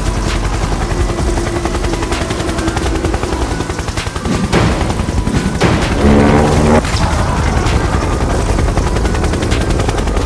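Cartoon sound effects: a helicopter rotor chopping rapidly, then several sharp shot-like blasts from about halfway through, with a loud brief pitched cry among them.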